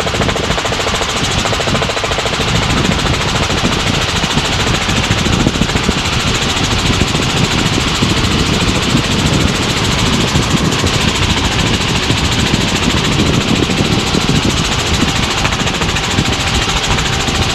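Tour helicopter's engine and rotor running steadily in flight, heard from inside the cabin.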